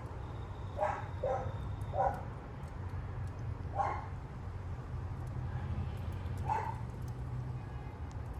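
A dog barking in short single barks, five of them spread unevenly over several seconds, over a steady low rumble of wind on the microphone.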